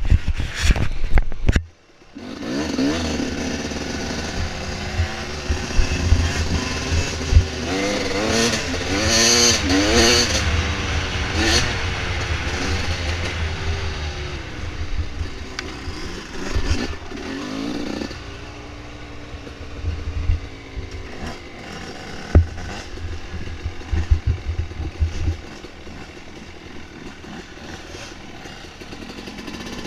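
Dirt bike engine running and revving up and down, its pitch rising and falling several times, with clatter and knocks from riding over rough trail. The sound drops out sharply for a moment just before two seconds in.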